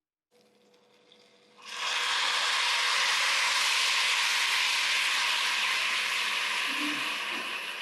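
Sizzling in a hot pan: a loud hiss that starts suddenly about a second and a half in, holds steady, then slowly dies down near the end.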